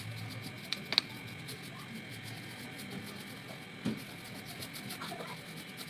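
A few small sharp clicks and taps from handling the model, the loudest about a second in, over a steady faint hiss.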